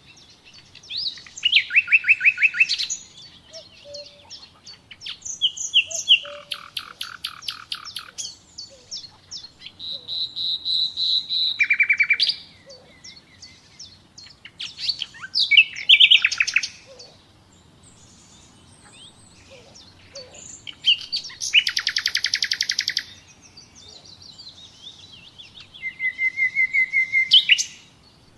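Common nightingale singing: varied phrases with short pauses between them, many built of rapid repeated notes, and one sustained pure whistle about ten seconds in.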